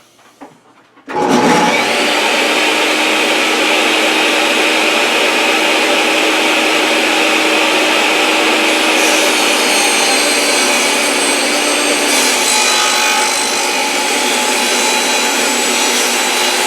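Table saw switched on about a second in and running loud and steady, its 10-inch 80-tooth triple-chip plastic-cutting blade sawing through a half-inch HDPE plastic plate, with the sound changing about twelve seconds in.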